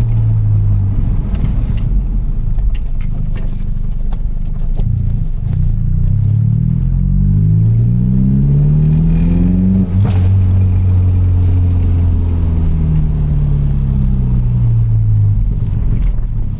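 Straight-piped exhaust of an mk1 Audi TT 180's 1.8-litre turbocharged four-cylinder: the revs climb slowly, hold steady for a couple of seconds, then fall away again. A single sharp click comes about two thirds of the way through the climb.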